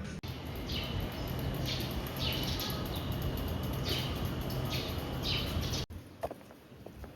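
A bird calling repeatedly, about six short downward-sliding chirps over a steady low background hum. About six seconds in the sound cuts to a quieter background with a few light taps.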